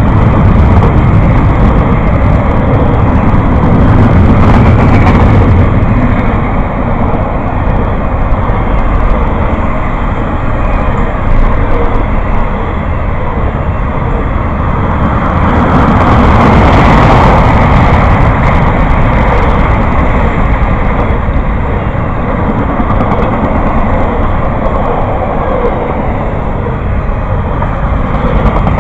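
A train passing close by: a loud, steady rolling rumble that swells briefly a little past halfway.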